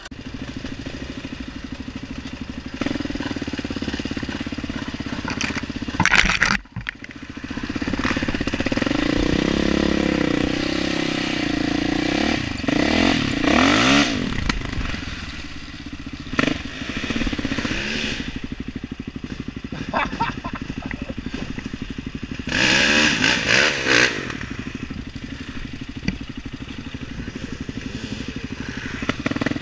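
Off-road dirt bike engine being ridden over rough ground, its revs rising and falling several times between about 8 and 14 seconds in, with sharp throttle bursts near 6 seconds and again around 23–24 seconds.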